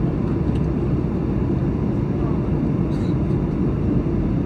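Steady low cabin rumble of a Boeing 737-900 in flight on descent: engine noise and airflow around the fuselage, with a faint light click about three seconds in.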